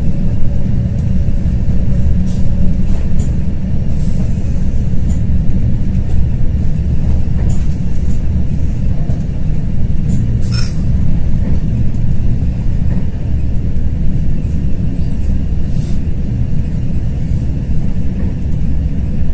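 Cabin noise inside a DB class 429.1 electric multiple unit running at speed: a steady, loud low rumble from the wheels and running gear, with a few brief faint clicks, the clearest about ten seconds in.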